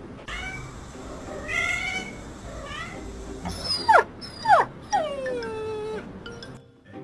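A pet animal calling: a few short high calls, then two sharp falling yelps about four seconds in, followed by a longer call that slides down in pitch.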